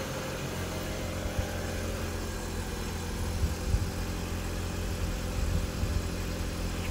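Jeep Patriot's four-cylinder engine idling steadily, with a low even hum.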